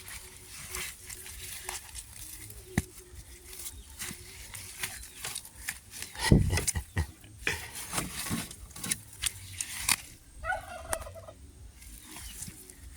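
Domestic turkey gobbling once, a fluttering call about ten seconds in, over scattered knocks and clatter, with one loud thump about six seconds in.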